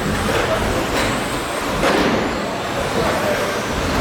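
Electric 1/10-scale RC stadium trucks with 13.5-turn brushless motors racing: a continuous mix of motor whine and tyre noise, with a couple of sharp knocks, near the start and about two seconds in.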